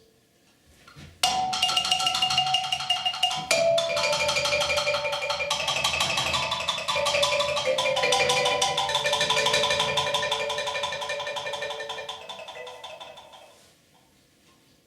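Solo marimba played with mallets in fast rolls, many rapid strokes sustaining chords that shift in pitch. It enters after about a second of silence and dies away to near silence near the end.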